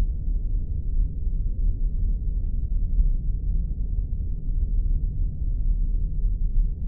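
Spaceship engine ambience sound effect: a steady, deep rumbling drone, all low in pitch, with no change.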